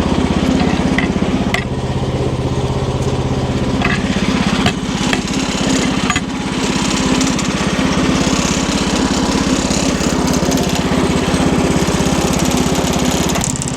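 Wood-Mizer LX50 Super sawmill's small engine running steadily, with a few sharp rattling knocks between about one and a half and six seconds in.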